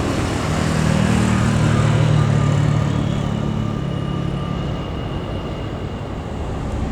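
Jet airliner passing, its engines a broad roar with a low hum and a thin high whine that swell and then fade away, over road traffic noise.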